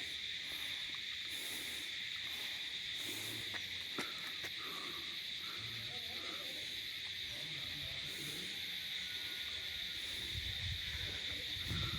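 Steady chorus of crickets, a continuous high-pitched shrill with no break.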